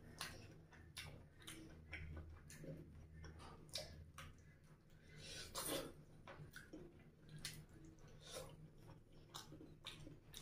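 Faint close-up eating sounds: a person chewing a mouthful of rice and fish curry, with a quick irregular run of soft wet mouth clicks and smacks. There is a short louder rush about halfway through.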